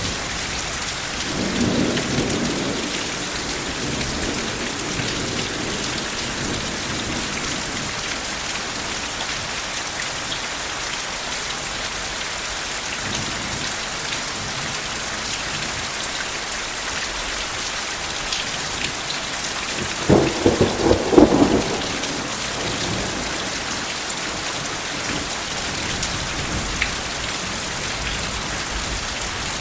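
Steady rain falling, with a low roll of thunder about two seconds in. About twenty seconds in comes a louder clap of thunder: several sharp cracks over a second and a half.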